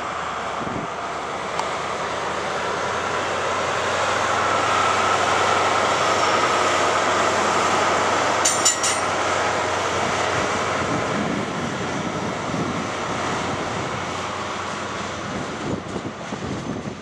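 A First Great Western HST (InterCity 125) passing at speed: the diesel power cars and the wheels on the rails make a steady rushing roar that swells as the rear power car goes by, then fades as the train draws away. A quick cluster of clicks comes about eight seconds in.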